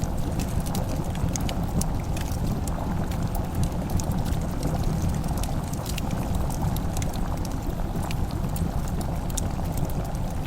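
Fireplace crackling: irregular small sharp pops and ticks over a steady low rumble.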